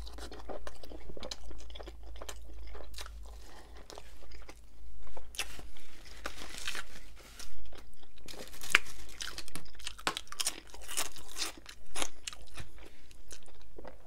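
Close-up chewing of a mouthful of Subway B.M.T. sandwich, with irregular crunching and wet mouth clicks, a few louder crunches partway through.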